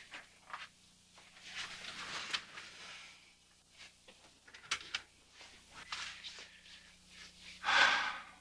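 Faint rustling and shuffling movement sounds with a few soft clicks, and one louder rustle near the end.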